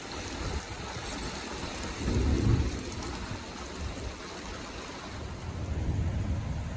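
Approaching thunderstorm: a steady hiss with low rumbling that swells briefly about two seconds in and again, longer, near the end.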